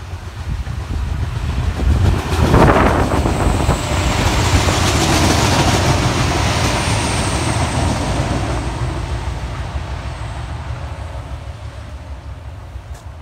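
Suburban passenger train passing close by on the rails, growing quickly to its loudest a couple of seconds in, staying loud as the cars go past, then fading away as it leaves. A faint high whine runs through the passing.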